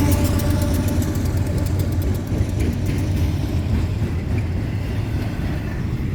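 Double-stack intermodal freight train rolling past close by: a steady low rumble of steel wheels on rail, with a rapid regular ticking that fades away over the first couple of seconds.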